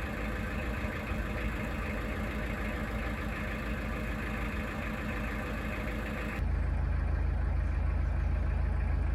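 Narrowboat engine running steadily while cruising. About six seconds in the sound changes abruptly to a louder, deeper engine hum.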